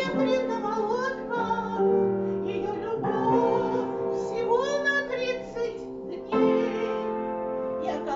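A woman singing a song with instrumental accompaniment, her voice holding and bending long notes over steady held chords.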